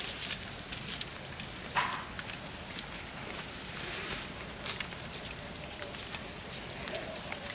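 An insect chirping with a short high note that repeats about once a second, over scattered rustling and clicking, with one louder knock about two seconds in.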